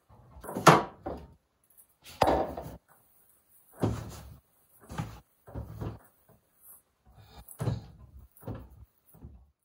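A run of about eight knocks and thuds as things are handled and set down in a kitchen, the two loudest near the start.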